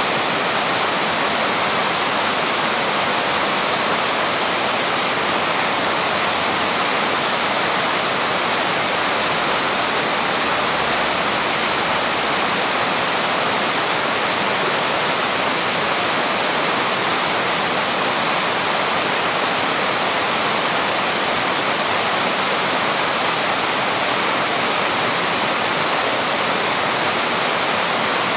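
Waterfall pouring, a steady, even rush of falling water with no breaks or changes.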